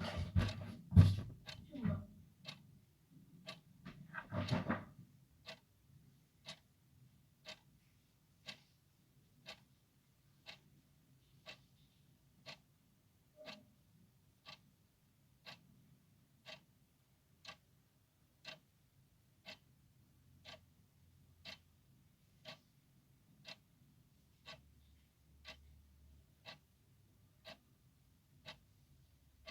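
Clock ticking steadily and evenly, about once a second. A few louder, irregular noises come in the first few seconds, the loudest about a second in.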